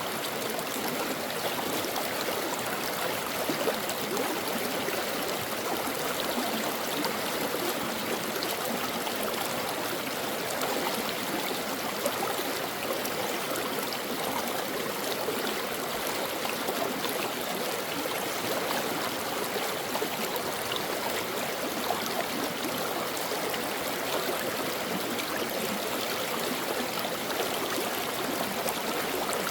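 Brook running steadily, an even, continuous rush of flowing water.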